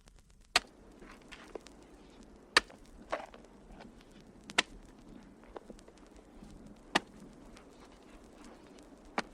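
Recorded sound effect of sharp, hard strikes, one about every two seconds, five in all, with a softer knock just after the second.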